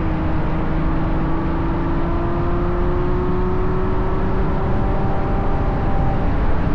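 Ferrari GTC4Lusso's 6.3-litre V12 running through a Capristo exhaust while the car drives, its tone climbing slowly and steadily as it gains speed. Heavy wind and road noise lie under it.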